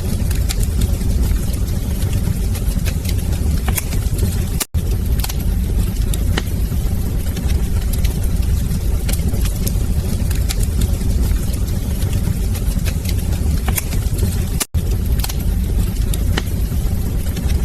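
Wood fire crackling in a fireplace: a steady low roar of flame with frequent sharp pops and snaps scattered throughout. The sound cuts out for an instant twice, about ten seconds apart.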